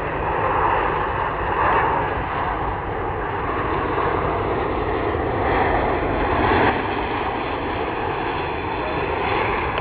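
Boeing C-17 Globemaster III's four turbofan jet engines running as the transport passes low and slow: a loud, steady jet rush that swells a little now and then.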